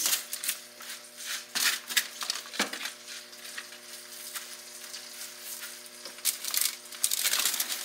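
Breaded chicken sizzling in an electric fryer, a steady hiss, under the rustle and crunch of a chicken breast being pressed and turned in dry breadcrumbs on a foil-lined baking sheet. The crunching and crinkling come in irregular strokes, loudest near the end.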